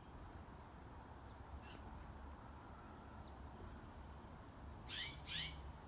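Outdoor birds calling: a few faint short chirps, then two louder calls about half a second apart near the end.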